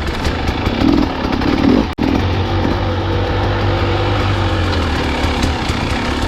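Dirt bike engine running under load on a trail, surging twice in the first two seconds, then holding a steady pitch. The sound cuts out for an instant about two seconds in.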